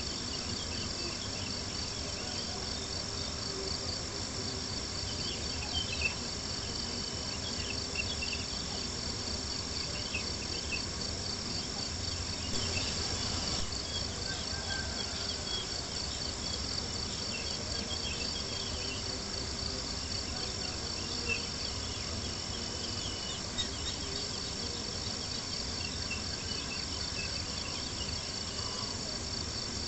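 Steady chorus of crickets chirping in a fast, even pulse, over the soft crackle of a campfire with a few sharper pops.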